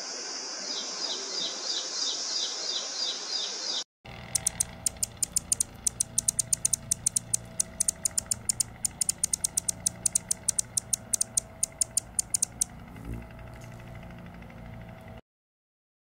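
A small bird gives a quick series of high, falling chirps, several a second, over a steady high hiss. After a cut, a hummingbird makes sharp, very high chip notes in a rapid run of many ticks that stops about three-quarters of the way through. The sound cuts off abruptly near the end.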